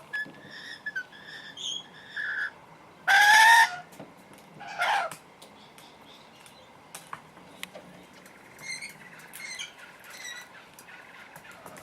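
Parrots calling: a series of short whistled notes, then two loud harsh squawks about three and five seconds in, followed by fainter chirping.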